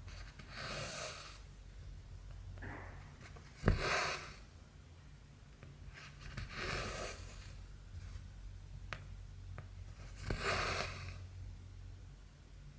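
Cotton embroidery thread drawn through cross-stitch fabric, a rasping hiss with each pull, four times about three seconds apart. There is a sharp click just before the second pull, and a low steady hum underneath.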